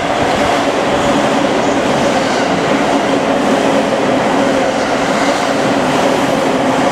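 JR East 209 series 1000-subseries electric train running through the station at speed without stopping: a loud, even rush of wheels on rails with a steady low hum under it.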